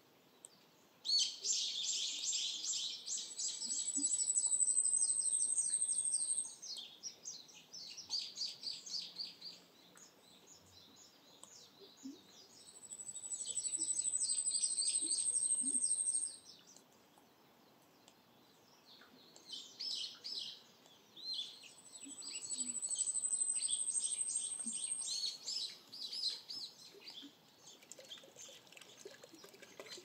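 A songbird singing three long songs several seconds apart, each a fast run of chattering notes with a thin, high, slightly rising trill.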